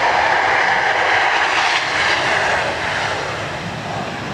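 Airbus A320 jet airliner passing close by, its engine noise a loud, even rush that starts to fade about two and a half seconds in.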